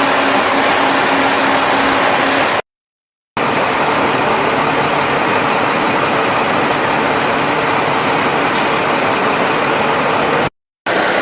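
Heavy diesel engine of an excavator or truck running steadily under load, with a dense mechanical rumble, broken twice by abrupt short gaps of silence, after which the engine note shifts slightly.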